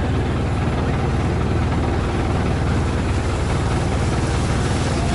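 Long-tail boat engine running steadily under way: a loud, even low throb with a steady hiss over it.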